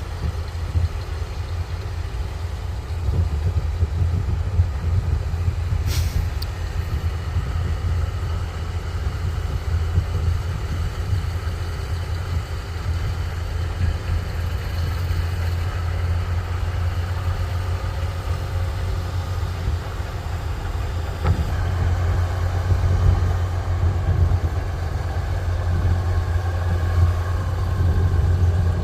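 Kubota rice combine harvester's diesel engine running steadily under load, a deep continuous drone with the rattle of its machinery. A single sharp click about six seconds in.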